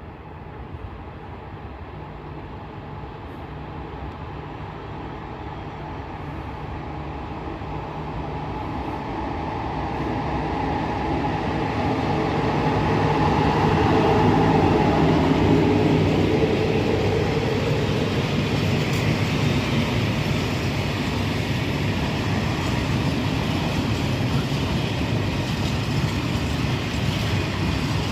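A train approaching and passing, growing steadily louder to a peak about halfway through, then running on at a slightly lower, steady level.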